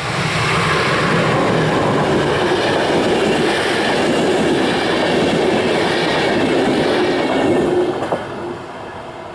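A passenger train hauled by a Siemens Vectron electric locomotive passes close by at speed, with a steady rush of wheels and coaches and a clatter over the rail joints. The sound drops off sharply about eight seconds in as the train goes by.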